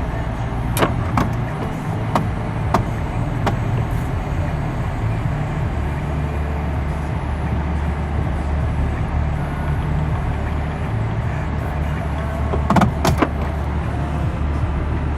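2018 GMC Yukon Denali's 6.2-litre V8 idling steadily, heard from inside the cabin. A few sharp clicks come in the first few seconds and again near the end.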